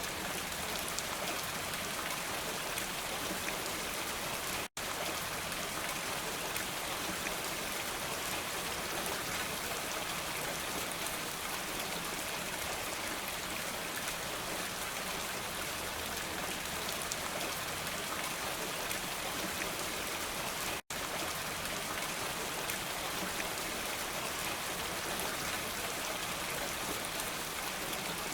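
Steady rain falling: an even, dense hiss with fine drop patter. The sound cuts out completely for an instant twice, about 5 and 21 seconds in.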